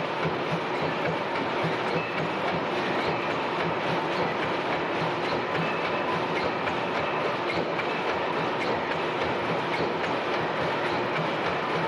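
Several Snow 400 HP tandem natural gas pumping engines from 1911–1915 running together under full load, a steady rhythmic clatter of overlapping engine beats.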